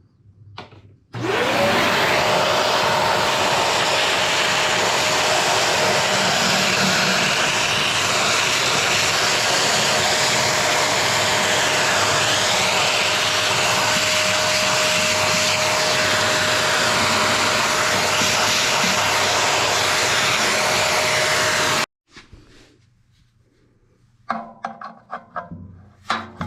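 An electric air-moving cleaning tool, of the vacuum or blower kind, spins up about a second in to a steady high whine over a loud rush of air. It runs for about twenty seconds and then cuts off suddenly, followed by faint handling sounds.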